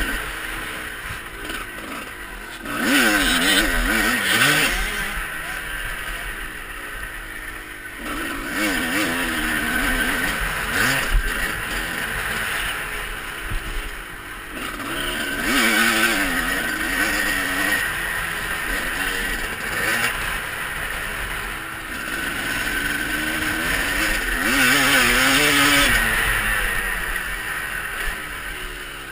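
Motocross bikes revving as they ride the track, the engine note rising and falling with throttle and swelling louder several times as bikes come near.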